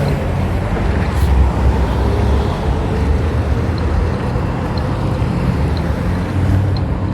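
Steady low rumble of motor-vehicle engine and road noise, with faint regular ticks about once a second in the second half.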